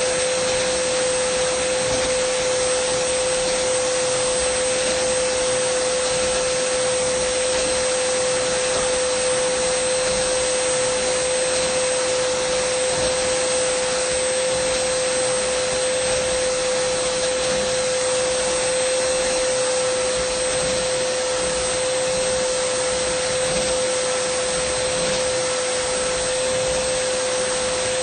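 Dyson vacuum cleaner running steadily: a constant rushing whoosh with a steady high whine and a faint higher whistle.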